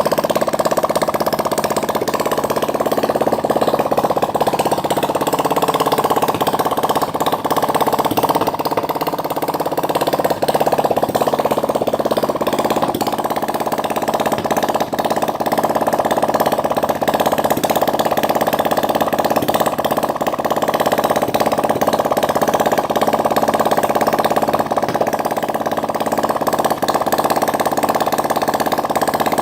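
Water-cooled 175cc single-cylinder engine running steadily at idle, a continuous loud mechanical drone.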